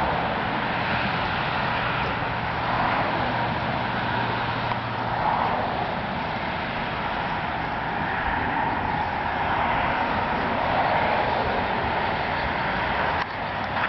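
Honda CB750K's air-cooled inline-four engine idling steadily at about 1,000 rpm.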